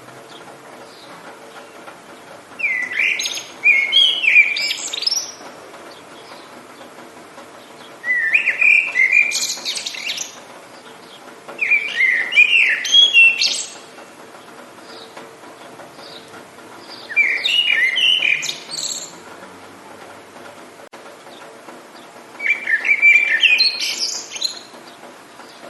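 A songbird singing five short phrases, each about two to three seconds long and a few seconds apart, over a faint steady hiss.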